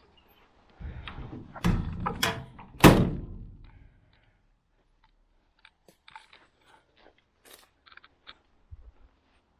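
Heavy metal thunks and clunks from the bodywork of a 1970 Mercedes-Benz Unimog 404 being handled: a run of knocks about a second in, the loudest near three seconds, then a few light clicks.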